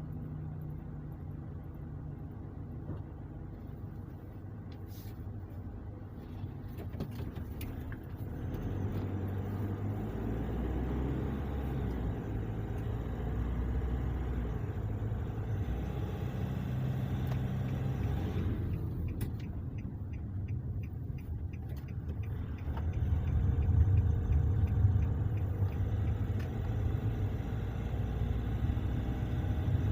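Car driving on a road test, its engine and road noise growing louder about eight seconds in and again around 23 seconds as it gathers speed. No differential hum is heard: the newly replaced pinion gear, side gears and differential bearings run quiet.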